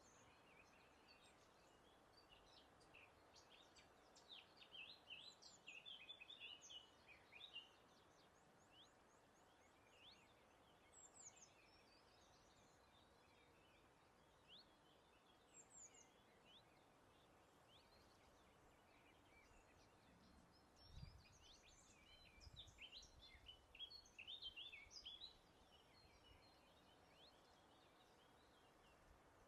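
Small songbirds singing faintly in two spells of quick, high chirping notes, one early and one in the second half, over a soft steady hiss of breeze.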